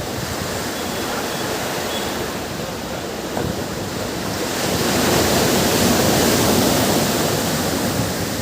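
Ocean waves washing onto a beach, one wave swelling to break loudest about halfway through, then easing off as it washes back.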